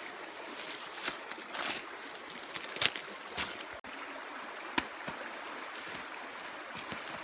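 Steady trickling, flowing water, with short sharp clicks or splashes every second or so.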